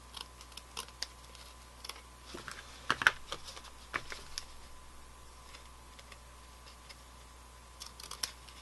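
Scissors trimming a ribbon end: scattered small snips and clicks, busiest in the first few seconds, a pause, then a few more near the end.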